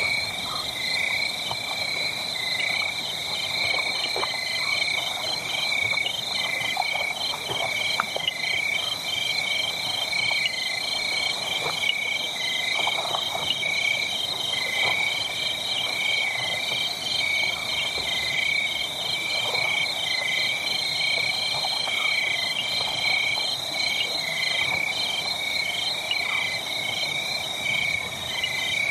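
A steady night chorus of high, rapidly repeated chirping runs throughout. Underneath, a fire crackles with scattered sharp pops over a soft hiss.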